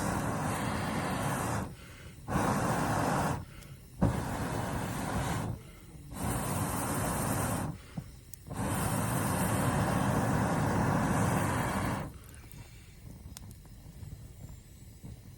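Air blown hard in long breaths into a campfire through a fire-blowing pipe: five blows, the last about three seconds long, each followed by a short pause for breath.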